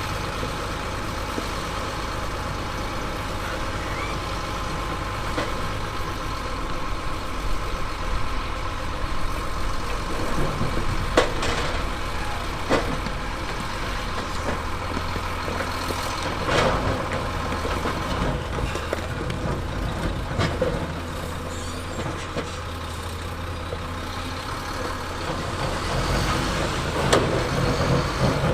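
Diesel engine of heavy earthmoving machinery running steadily, with a few sharp knocks or clanks around the middle.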